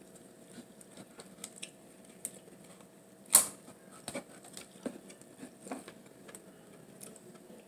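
Close-up eating sounds: irregular small clicks and soft chewing noises, with one louder sharp crack about three seconds in.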